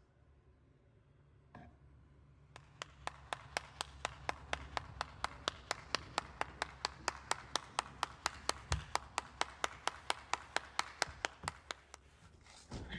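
A rapid, even series of sharp clicks, about five a second, starting a couple of seconds in and stopping shortly before the end, over a low steady hum.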